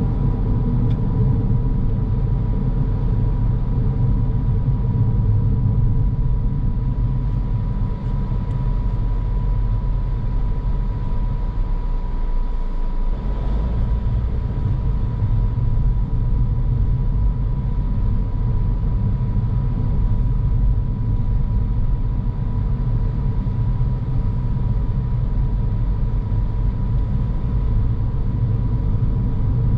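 Car driving along, its road and engine noise a steady low rumble with a thin steady whine running through it. The low rumble shifts briefly about twelve seconds in.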